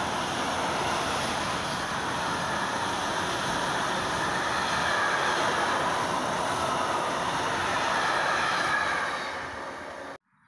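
Intermodal freight train of pocket wagons loaded with semi-trailers rolling past: a steady, loud rumble and clatter of wagon wheels on the rails. It eases off as the last wagons pass and cuts off abruptly near the end.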